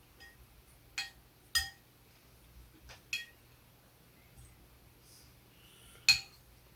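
A spoon clinking against a bowl as pepper powder is stirred into soup: four sharp, ringing clinks, the loudest near the end, with a few fainter taps between.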